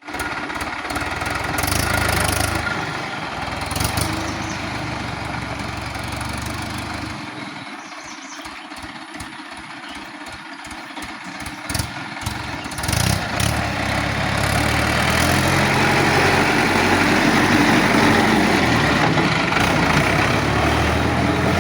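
Tractor engine running, dropping to a slow, pulsing idle for a few seconds midway, then picking up again and running steadily louder.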